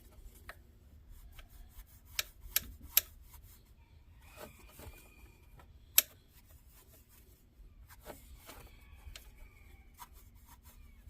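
Hand tools and metal parts being handled under the hood: scattered sharp metallic clicks, three in quick succession about two seconds in and a louder one around six seconds, with light scraping and rubbing between them.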